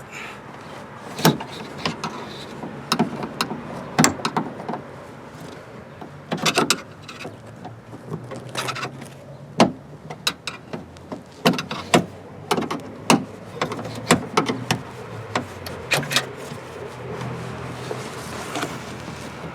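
Irregular sharp clicks and knocks of hands and tools working the plastic rod clips and lock rods inside a car door, over a steady low hum.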